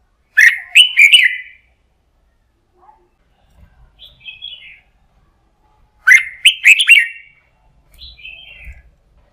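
Red-whiskered bulbul singing: two loud, quick phrases of a few notes each, about five and a half seconds apart, each followed a few seconds later by a softer, higher twitter.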